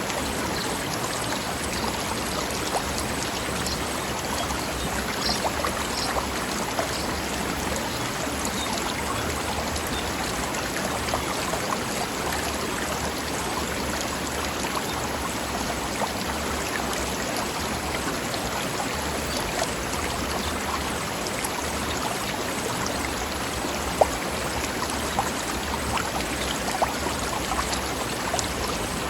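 Forest river flowing: a steady rush of running water with small splashes and drips scattered through it, and a sharper splash near the end.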